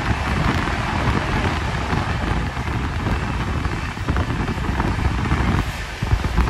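Passenger train coaches running at speed on the rails, heard from on board: a steady rumble of wheels and track with wind noise. The rumble dips briefly near the end, then comes back.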